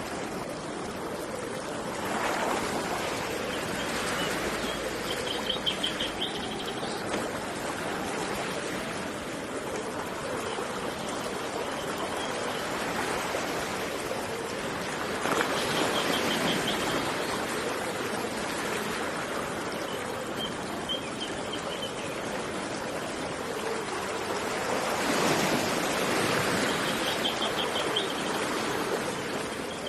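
Flowing water rushing steadily, swelling louder three times, with a small bird's short, rapid high trill repeated half a dozen times.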